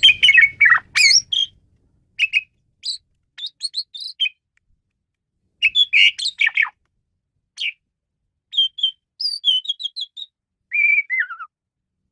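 Asian pied starling (jalak suren) singing: short bursts of varied chirps, whistles and harsher squawky notes separated by brief pauses, with a phrase of falling notes near the end.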